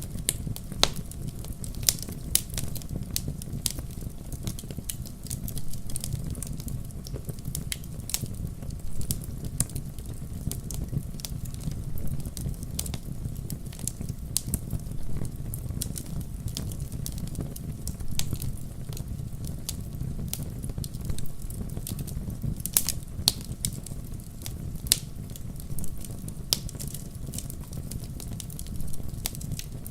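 Wood fire in a fireplace crackling, with irregular sharp pops and snaps of burning logs over a steady low rumble of the flames.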